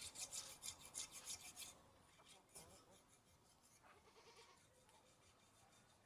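Rhythmic gritty scraping, about five strokes a second, that stops after about two seconds. Then it is quiet apart from a faint animal call about four seconds in.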